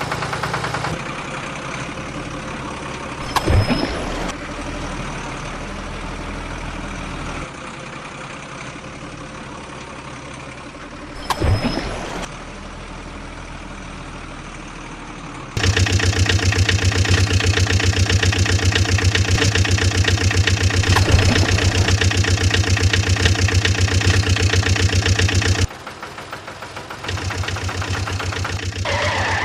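Engine sounds, idling and running steadily, that change abruptly several times, loudest from about 15 to 25 seconds in. Two short sharp crashes come at about 3.5 and 11.5 seconds.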